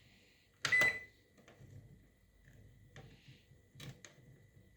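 Microwave oven control panel: a button press with a short high beep under a second in, then a few faint clicks over a low hum.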